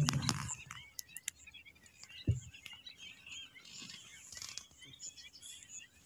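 Faint bird chirps and calls, many short notes scattered throughout, over a low rumble that dies away in the first half second. A single low thump comes a little over two seconds in.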